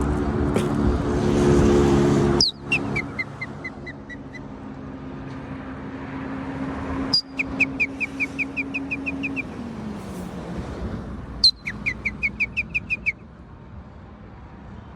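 A bird calling three times, each call a sharp high note followed by a quick run of about ten short chirps. A steady engine hum is heard in the first couple of seconds.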